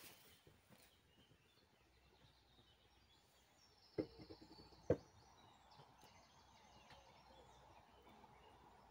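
Quiet forest ambience with faint bird chirps, broken by two sharp knocks or snaps about a second apart, around halfway through.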